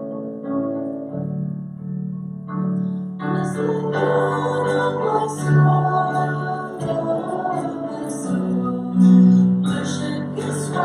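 Church worship band playing: soft sustained keyboard chords, then the full band coming in about three seconds in, with a steady rhythm on top.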